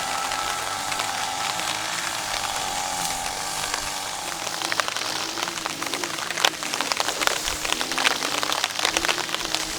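Rain falling on a DD tarp, with sharp individual drop strikes growing thicker from about halfway in. Soft background music runs underneath, stronger in the first half.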